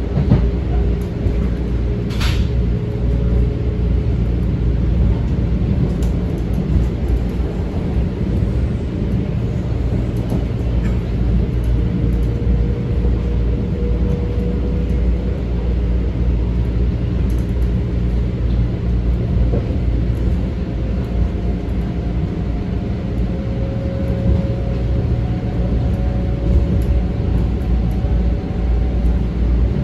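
An M7 electric commuter railcar running between stations, heard from inside: a steady rumble of wheels on the track with a faint whine that drifts slowly in pitch. There is a brief sharp click about two seconds in.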